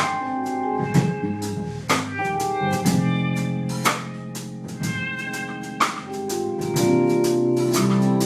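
Live band playing an instrumental: a drum kit keeping time with cymbal strokes and a strong hit about once a second, under held, sustained guitar notes.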